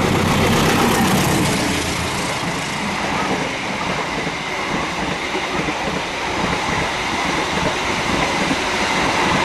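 Passenger train running along the track: a steady, loud noise of the moving train with no pauses.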